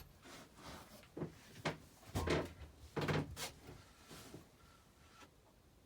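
A series of sudden knocks and clunks, about seven in all, the loudest about two and three seconds in. They die away by about five seconds, leaving quiet room tone with a faint thin tone near the end of the knocking.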